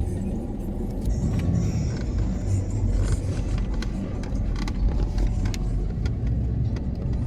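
Motor vehicle running with a steady low rumble, with light rattles and clicks through it.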